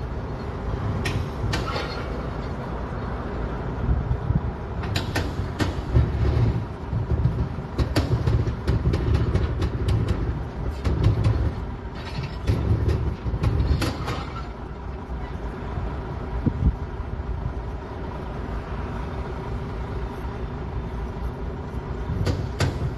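Heavy equipment engines running in a low rumble while crews move a derailed tank car, with scattered metallic clanks and knocks.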